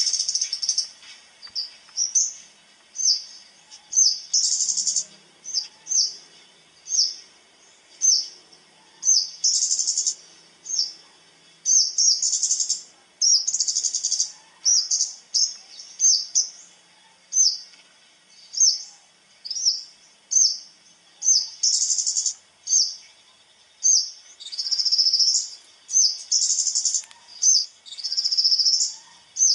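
Small songbird known locally as a talokan calling: a run of short, high chirps about one to two a second, broken now and then by longer trilled phrases.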